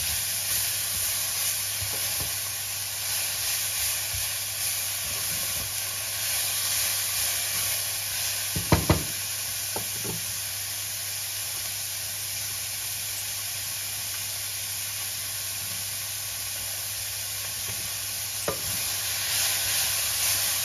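Bean sprouts and chives sizzling as they are stir-fried in a pan, with steady stirring. A few sharp knocks of the utensil against the pan come a little under halfway through, and another near the end.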